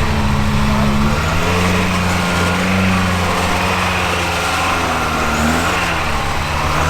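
Off-road truck's engine running at low, steady revs, its pitch rising and falling slightly as it crawls along the trail.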